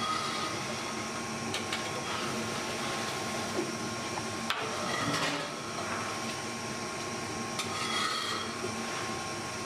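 Hand work on warm candy dough at a workbench: rubbing and scraping with a few sharp knocks, one about halfway through, and short squeaks near the start and near the end, over a steady machine hum.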